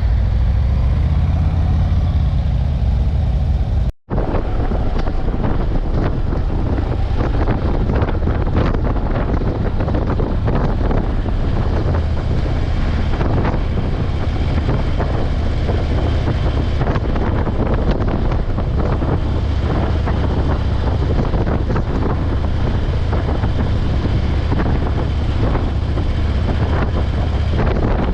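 Motorcycle engine running at road speed, mixed with wind rushing over the microphone while riding. The sound cuts out for an instant about four seconds in.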